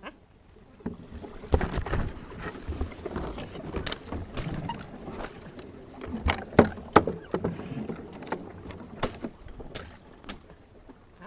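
Irregular knocks and water noise, as from a small boat being paddled or moved about, with several sharp knocks on the hull.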